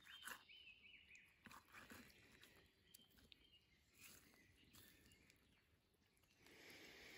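Near silence: faint outdoor ambience with a few soft clicks and a brief faint high chirp near the start.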